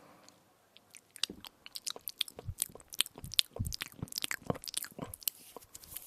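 Close-miked crunching and chewing of an edible spoon: a quiet first second, then a rapid, irregular run of crisp crackles and bites.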